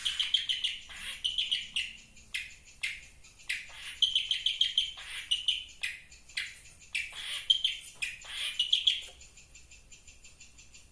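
Small birds chirping in quick, repeated bursts of sharp high chirps, several phrases a second apart; the chirping dies down about nine seconds in.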